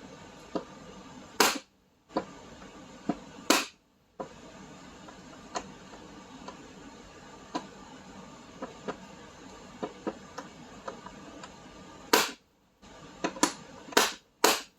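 Sharp hammer strikes on a hand impact driver set in a stuck seat screw: two single blows a couple of seconds apart, then a quick run of four near the end, with light clicks and handling of the tool between them.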